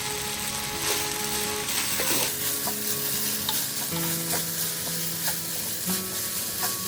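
Rice frying in hot oil with ginger paste in a pan, sizzling steadily as it is stirred, with light scraping of the spoon.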